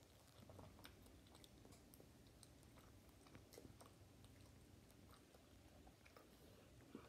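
Faint chewing of a mouthful of soft steamed bun: scattered small mouth clicks over a quiet, steady room hum.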